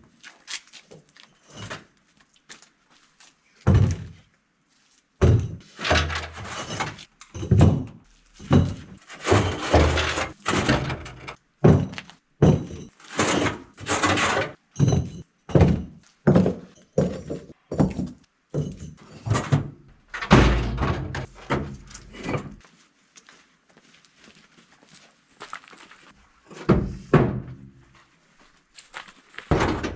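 Bricks knocking: a run of heavy thunks and knocks, one or two a second, as bricks are handled and set for a fireplace floor, pausing for a few seconds near the end before a couple more knocks.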